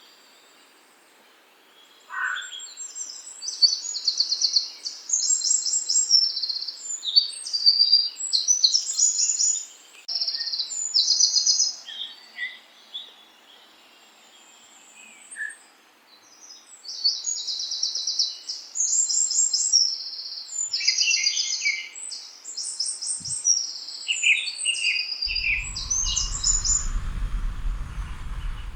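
Songbirds chirping in quick, high, rapidly repeated phrases, with a lull of a few seconds in the middle. Near the end a low rumble comes in under the song.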